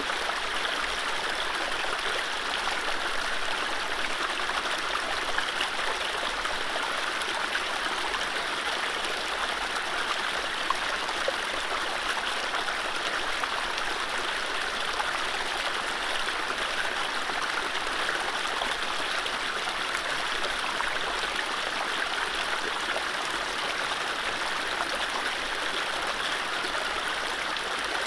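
Mountain stream flowing over low rapids: a steady rushing and splashing of water, with no birdsong.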